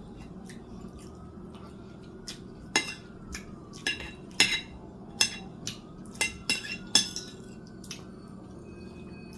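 Cutlery clinking and scraping against a plate while eating, a dozen or so sharp clicks, most of them between about three and seven seconds in.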